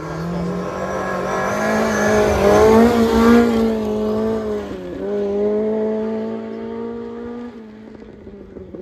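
Rally car passing at speed, its engine running hard at high revs. It is loudest about three seconds in, lifts briefly about five seconds in, then holds on before fading away.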